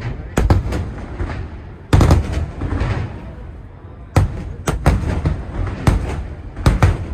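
Aerial fireworks shells bursting: sharp loud bangs come in quick clusters of two or three, about a dozen in all, each followed by a low rumbling echo.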